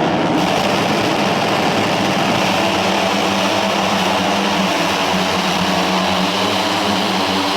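Loud, steady engine drone with a low hum underneath that firms up slightly near the end.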